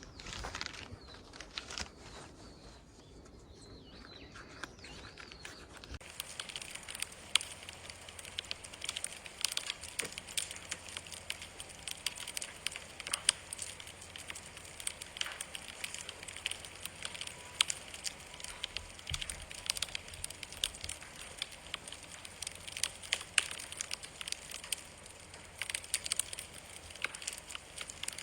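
Wood campfire crackling, with frequent sharp pops; the crackling starts about six seconds in, after a quieter opening stretch.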